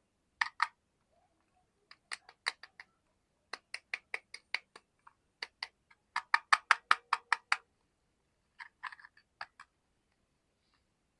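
Fidget toy being worked by hand, giving sharp clicks in irregular clusters, with a fast run of about a dozen clicks around six to seven and a half seconds in.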